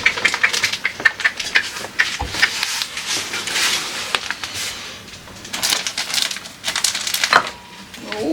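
Clattering and rustling of household items being handled and set down, with many quick knocks and clicks.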